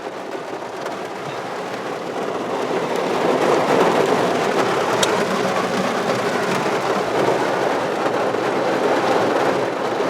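Heavy rain pouring down, a dense steady hiss that grows louder over the first few seconds and then holds.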